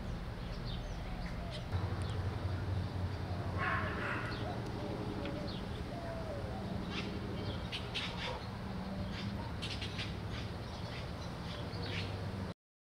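Outdoor ambience: scattered short bird chirps over a steady low hum, cutting off suddenly near the end.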